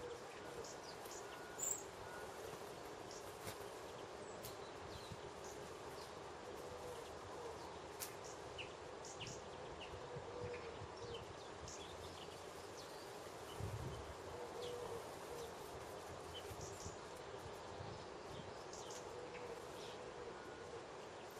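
Small garden birds giving short, high chirping calls, scattered throughout, over a faint steady low hum.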